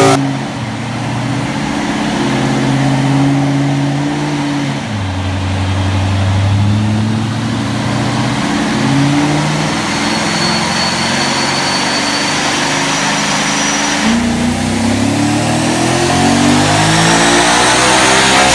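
A racing engine running under changing throttle. The revs fall off at the start and drop again about four and a half seconds in, hold lower and fairly steady, then climb again over the last four seconds.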